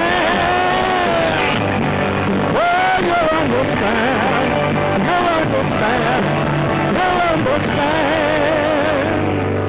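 Rock band music: a wordless, wavering lead melody over the full band, which settles about nine seconds in onto a long held chord.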